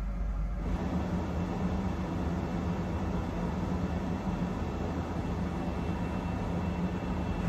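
Passenger train running along the line: a steady rumble and rush of running noise. Less than a second in, it changes abruptly from a deep low rumble to a brighter, fuller rush with a faint thin whine, which then holds steady.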